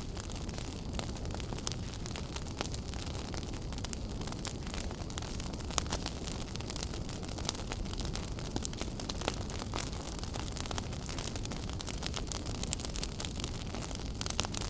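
Wood fire burning in a fireplace: a steady low rumble of flames with frequent crackles and a few sharper pops.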